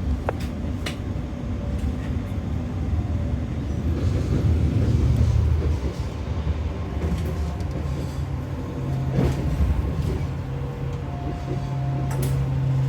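Steady low rumble of a passenger train running, heard from inside a stainless-steel executive coach, with a few short clicks. A steady low hum sets in about eight seconds in.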